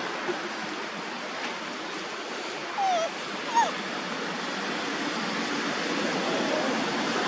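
Two short squeaky monkey calls, each falling in pitch, a little under a second apart about three seconds in, over a steady rushing background noise.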